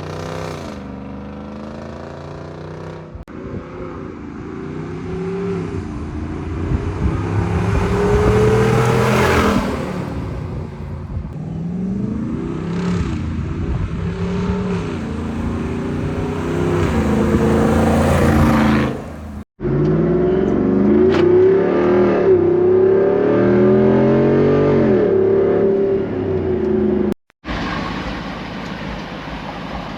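Jeep Wrangler 392's 6.4-litre HEMI V8 exhaust through an MRT H-pipe that replaces the factory resonator, giving a deeper, louder note. The revs repeatedly climb and drop back. The sound breaks off briefly about 19 and 27 seconds in.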